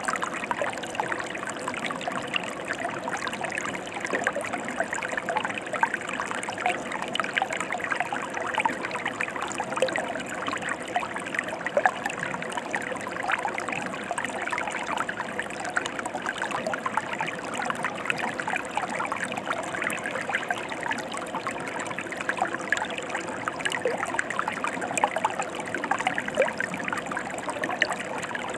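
Mountain river flowing: a steady rush of water, flecked with many small splashes and trickles.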